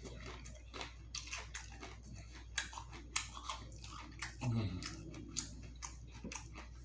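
Close-miked chewing and mouth sounds of a person eating, with wet smacks and sharp clicks. A short low hum from the eater's voice comes about four and a half seconds in.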